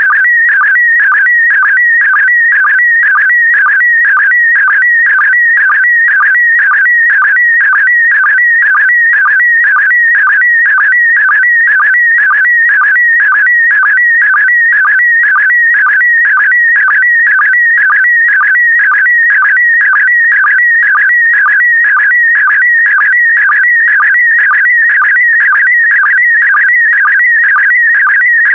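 PD120 slow-scan television (SSTV) image signal: a loud, steady, warbling tone wandering between about 1.5 and 2.3 kHz as it carries the picture line by line, broken about twice a second by a short low sync pulse.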